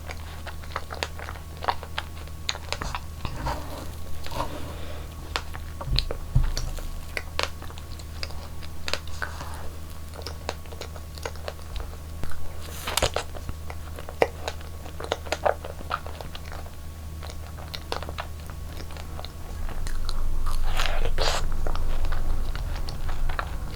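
Close-miked eating: a run of bites and chewing of strawberries and cream cake, full of short crisp crunching clicks, over a steady low hum. About twenty seconds in, a louder, denser stretch of chewing lasts a couple of seconds.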